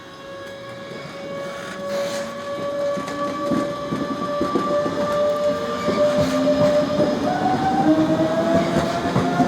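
DB Class 424 S-Bahn electric multiple unit accelerating. Its traction equipment gives a whine that rises in pitch and steps up once near the end, growing louder, over the clatter of wheels on the rails. This whine is the sound behind the class's nickname 'Quietschie'.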